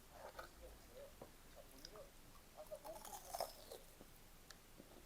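Soft chewing with small wet mouth clicks and squelches, quiet and close, busiest about halfway through.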